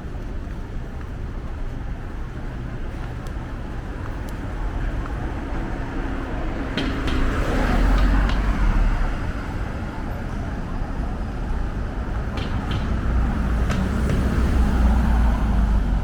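City street traffic: motor vehicles passing with a deep rumble, one swelling past about halfway through and another near the end, over steady street noise with a few sharp clicks.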